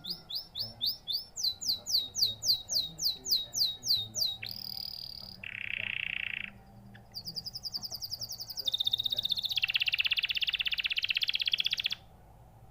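Domestic canary singing a chained song: a series of quick, high, rising whistled notes, about three a second, then a short buzzy note, then a long rapid high trill that cuts off suddenly near the end.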